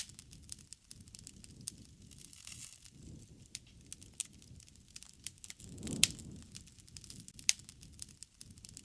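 Wood fire crackling, with scattered sharp pops and snaps over a low rush of flames that swells about six seconds in.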